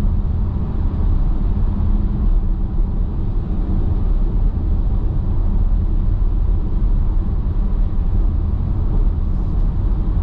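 Steady road and tyre noise heard inside an electric car's cabin at highway speed, a constant low rumble with no engine note.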